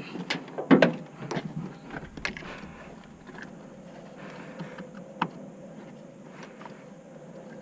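Clicks and knocks of tools and parts being handled during wheel and brake work: a quick run of them, then a few scattered clicks, one sharper about five seconds in.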